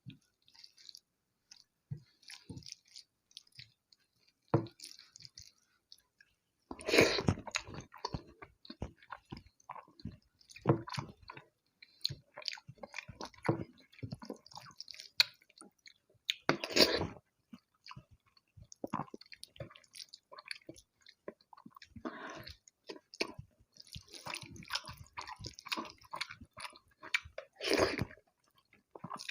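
Close-miked eating of rice with egg curry and fish curry: irregular wet chewing, smacking and squelching, with three louder squelchy bursts spread through.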